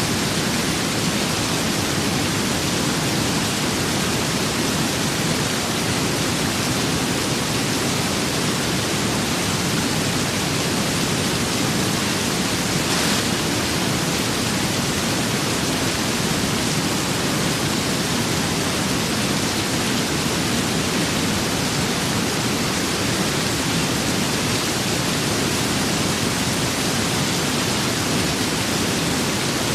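Rain and wind: a steady, dense, even hiss, with a faint, brief brighter swell about halfway through.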